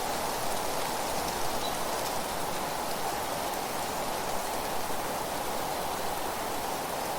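Steady wind noise: an even rushing hiss with no breaks or gusts.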